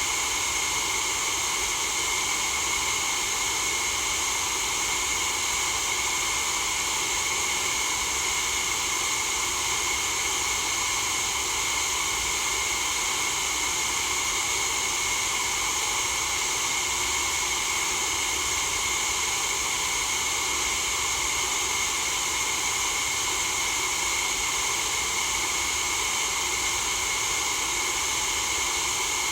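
Steady white noise for sleep: an even, unbroken hiss that never changes in level, brightest in the high range.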